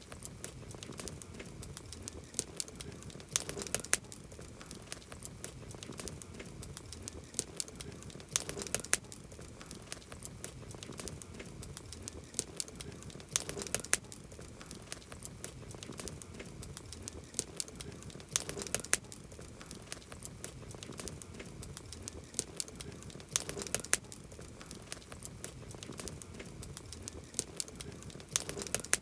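Wood campfire crackling steadily with sharp pops, a cluster of louder pops coming about every five seconds.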